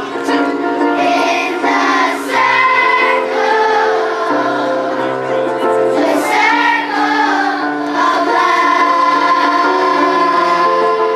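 Children's choir singing a song over held instrumental accompaniment.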